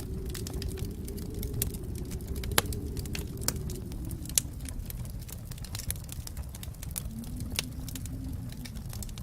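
Wood fire burning in a fireplace: a steady low rumble of flames with frequent sharp crackles and pops, the two loudest pops about two and a half and four and a half seconds in.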